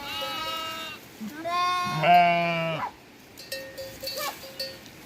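Sheep bleating: three calls in quick succession in the first three seconds, the last the loudest and deepest, followed by a few faint clinks.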